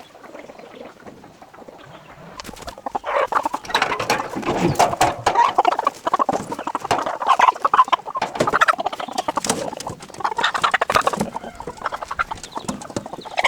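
Chickens clucking and squawking, getting louder and busier about two and a half seconds in, with many sharp clicks and knocks mixed through.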